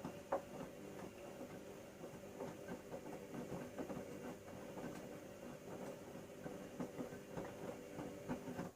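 Bauknecht Super Eco 6413 washing machine turning its drum in the wash phase: a steady motor hum with irregular soft knocks of laundry tumbling in the drum. The drum stops near the end.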